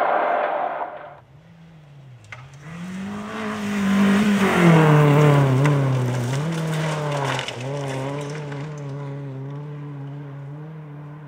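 Fiat Cinquecento rally car's engine. Loud noise cuts off about a second in, then the engine note rises and falls, at its loudest about four seconds in, and settles into a steady note that slowly fades.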